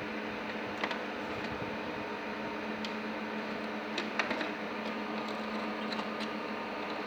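Steady machine hum with a few light clicks and taps, about one, three and four seconds in.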